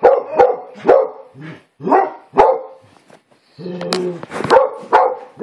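Dogs barking over and over in rough play-fighting, short loud barks about two a second, with a longer, lower bark-growl about four seconds in.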